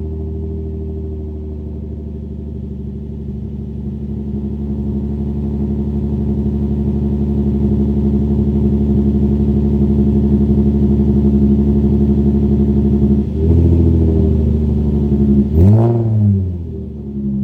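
Exhaust of a 2003 Nissan 350Z's 3.5-litre V6, running through test pipes, a DC Sports Y-pipe and a single resonator, idling steadily; near the end the throttle is blipped twice, the pitch rising and falling quickly each time.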